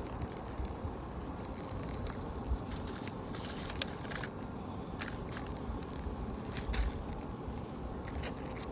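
A new asphalt shingle being handled and slid into place on a roof: steady scraping with scattered small clicks and crackles.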